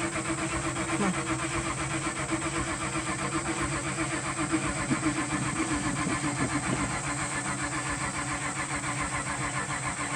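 Ford mud truck's engine being cranked by the starter with an even, rapid pulse, without catching. It cranks for about ten seconds and then cuts off suddenly.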